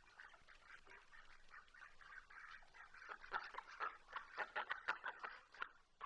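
Flock of domestic ducks quacking in quick, overlapping calls, growing louder and busier about halfway through.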